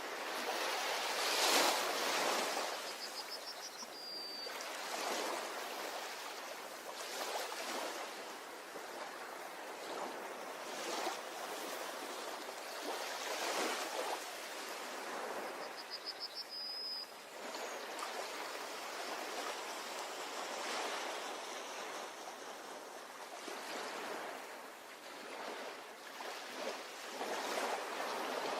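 Ocean surf washing onto a beach, the waves swelling and falling back every few seconds. A brief high chirping trill comes twice.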